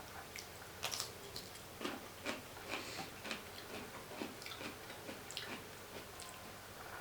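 A person chewing and biting Korean seasoned fried chicken, heard as irregular short mouth clicks and crunches about two or three a second.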